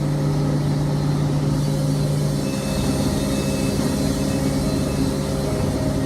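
Wood-Mizer LT70 band sawmill running, its motor giving a steady, unchanging hum.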